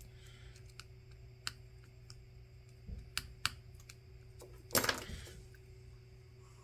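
Light, scattered clicks and taps of small repair tools working on a smartphone, with a louder clatter about five seconds in, over a steady low hum.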